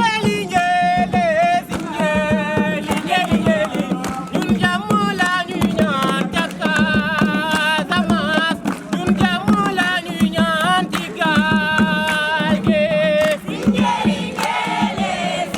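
A lead voice singing a song in short phrases over a steady beat; about fourteen seconds in, a group of voices joins in loudly.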